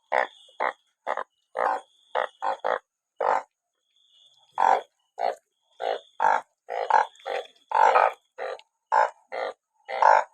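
Narrow-mouthed frogs calling after rain: a quick, irregular string of short, loud, low croaks, about two a second, some coming in close pairs. A faint, thin high tone sounds on and off behind them.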